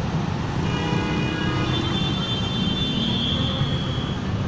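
Road traffic in a stop-and-go jam: a steady, low engine rumble from many vehicles, with faint high-pitched tones about a second in and again near three seconds.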